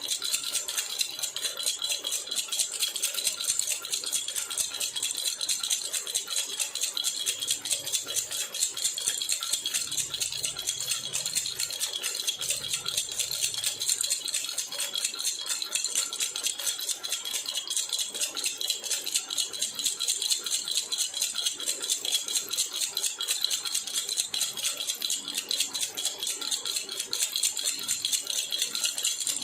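Metal baby rattle (jhunjhuna) shaken quickly and without a break: a steady, dense jingling rattle with a bright metallic ring.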